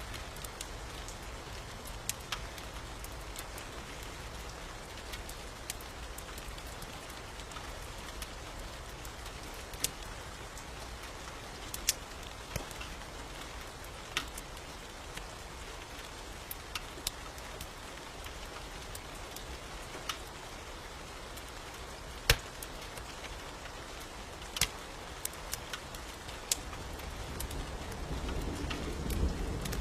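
Steady rain hiss with a wood fire crackling in sharp, scattered pops. A low rumble of thunder builds near the end.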